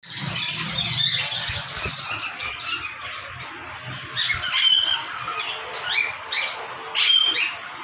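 African grey parrot chirping and squawking: a run of short rising calls with a few brief whistles mixed in.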